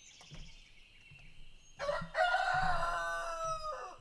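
A rooster crowing once: a loud call of about two seconds, starting about two seconds in. Faint, high birdsong can be heard before it.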